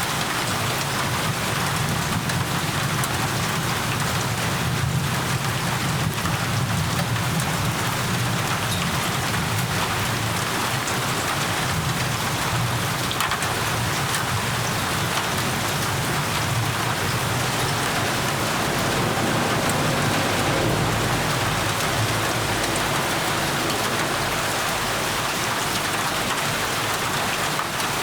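Steady, heavy rain falling on surfaces, a dense even hiss with a constant low rumble beneath it; a deeper roll of thunder swells about two-thirds of the way through.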